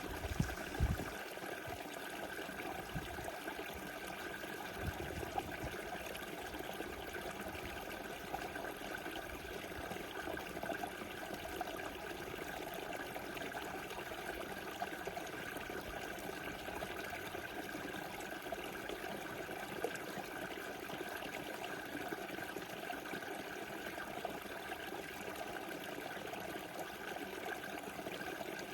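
Small river flowing steadily over its bed with a continuous rushing, trickling sound. A couple of brief low thumps come about a second in.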